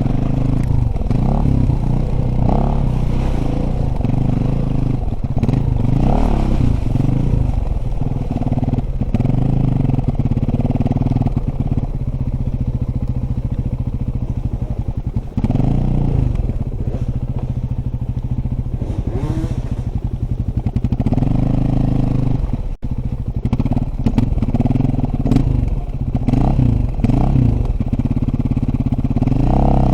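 Dirt bike engine running hard as it is ridden, its pitch rising and falling over and over with the throttle. The sound cuts out for an instant about two-thirds of the way through.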